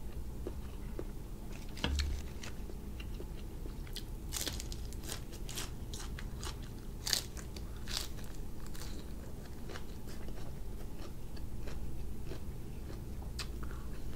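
A person chewing and biting close to the microphone, eating grilled chili-marinated cuttlefish: wet mouth clicks and crunches, busiest in the middle, with one sharp crunch about seven seconds in. A low thump comes about two seconds in.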